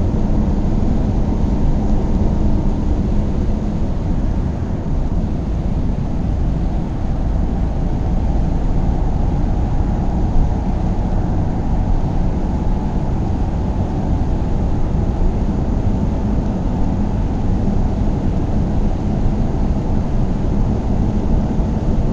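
A car driving at a steady speed: an even, low road-and-engine noise with a faint steady hum, unchanging throughout.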